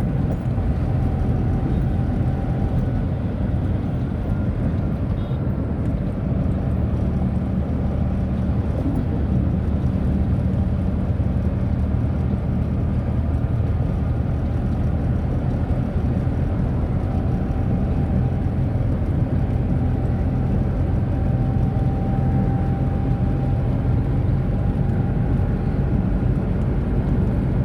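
Tata Nano's small two-cylinder petrol engine and tyre and road noise heard from inside the cabin while driving: a steady low drone with a faint engine tone over it.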